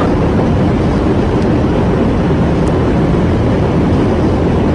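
Loud, steady rumbling noise of a vehicle engine, with no clear separate events.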